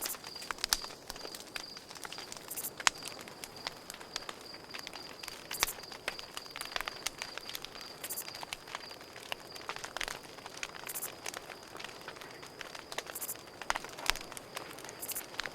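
Campfire crackling, wood snapping in irregular sharp pops, over a cricket's steady pulsing trill, with a short high buzz every two to three seconds.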